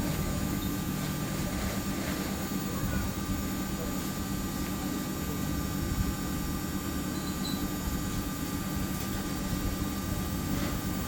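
Samsung ecobubble washing machine spinning its drum: a steady, even drone of motor and drum.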